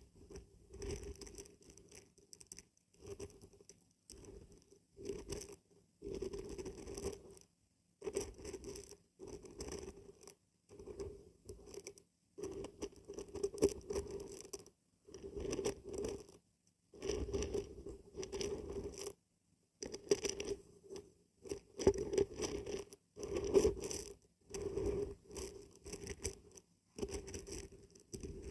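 Dried beans and barberries being shaken, rattling and scraping in short bursts about a second apart, with brief pauses between them.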